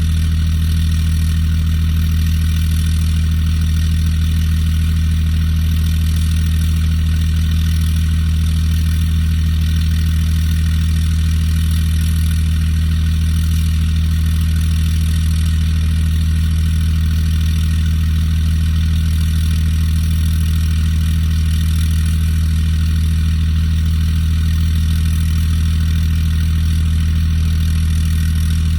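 Cummins diesel engine idling steadily after a cold start, a constant low hum with no change in speed.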